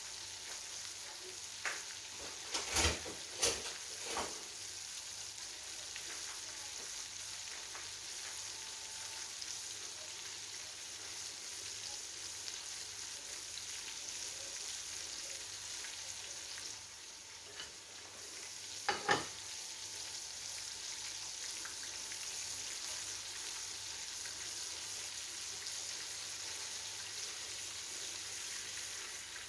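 Coated chicken breasts frying in hot oil, a steady sizzle. Sharp knocks cut through it: a few close together about three to four seconds in, and a couple more near nineteen seconds.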